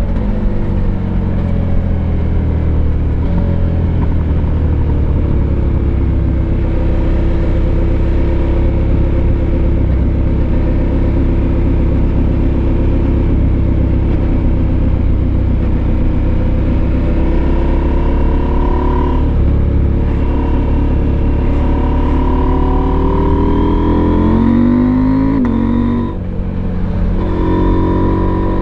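Husqvarna Norden 901's 889 cc parallel-twin engine under way on the road. Its pitch falls over the first several seconds and runs fairly steady for a while. It then climbs through the second half and is briefly interrupted near the end before it pulls again.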